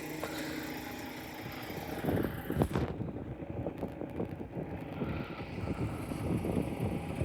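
A vehicle passing close by: a steady hum, then a rough low rumble that grows about two seconds in and carries on, with wind buffeting the microphone.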